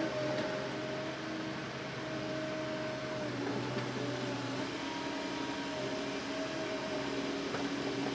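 Hitachi Zaxis excavator's engine and hydraulics running steadily, with a whining tone that drops and shifts in pitch about three seconds in as the load changes.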